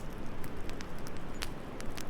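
Wood fire crackling, with a few sharp scattered pops over a steady low background of wind.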